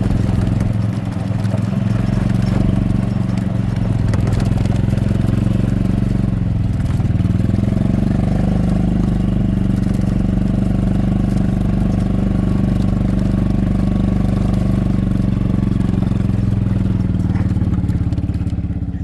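Vehicle engine running steadily at an even speed, dying away shortly before the end.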